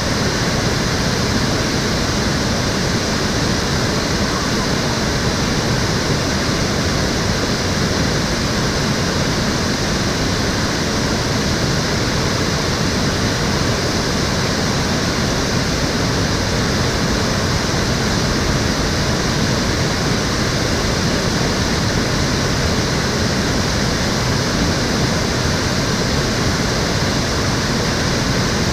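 Water of a stream flowing steadily, an even, unbroken rush with no change in level.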